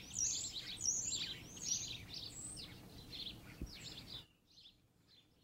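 Small birds chirping and twittering, many short calls in quick succession. About four seconds in, the sound drops suddenly to a few faint chirps.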